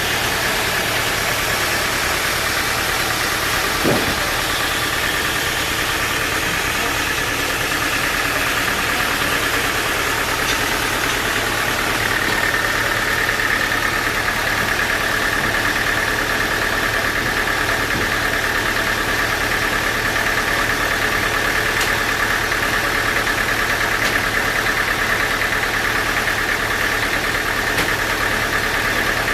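Sawmill saw running on a teak log: a steady, loud machine noise with a high whine that grows stronger about twelve seconds in. A single knock about four seconds in.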